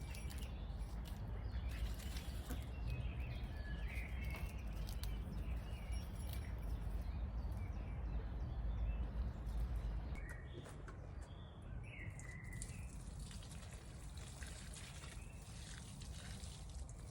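Outdoor ambience: small birds chirping now and then over a steady low rumble, with scattered faint ticks. The rumble drops away about ten seconds in.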